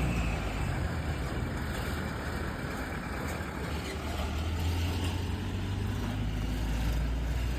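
A motor vehicle's engine running steadily: a low hum under road noise.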